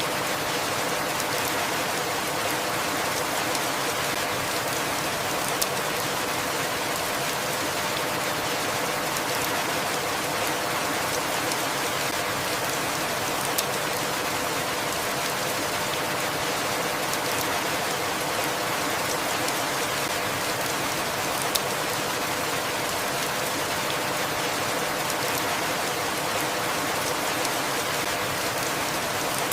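Steady rainfall, an even hiss of many drops, with three sharper drip ticks about eight seconds apart.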